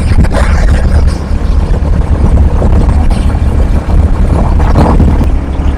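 Motorcycle running steadily at highway speed, with heavy wind buffeting on the microphone from the ride.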